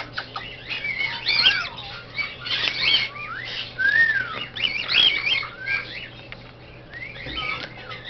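Caged pet birds chirping and whistling: many short whistles that slide up and down in pitch and overlap one another.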